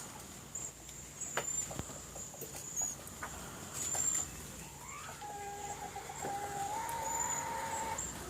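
Many small birds in a mulberry tree giving short, very high, thin chirps and whistles, with a few sharp clicks. Past the middle a steady humming tone with overtones comes in for about three seconds, rising slightly near the end.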